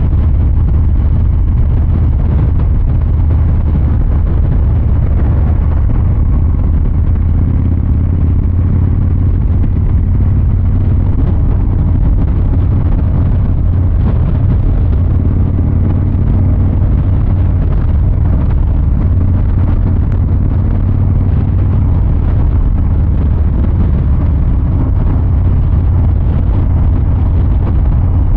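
Harley-Davidson Fat Boy 114's Milwaukee-Eight 114 V-twin running steadily through its exhaust while riding, with a deep low exhaust note and no sharp revving.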